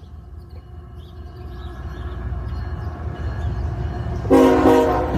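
Diesel freight locomotive approaching with a low rumble that grows steadily louder, then sounding its horn, a loud chord of several notes, for about a second near the end.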